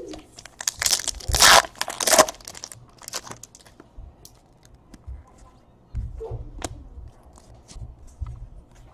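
A trading-card pack's foil wrapper being torn open and crinkled, loudest in the first two or so seconds, followed by faint clicks and rustles as the cards are handled.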